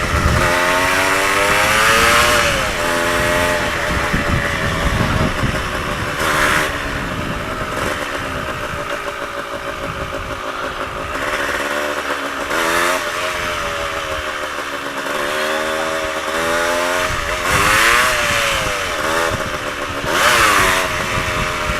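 Yamaha DT125's two-stroke single-cylinder engine under way, its pitch climbing as it accelerates and dropping back at each gear change, several times over, with wind rush over the microphone.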